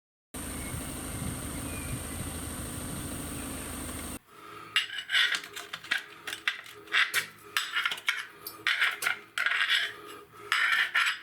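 A steady hiss with a low rumble for about four seconds, then a cut to irregular bursts of metallic clattering and scraping.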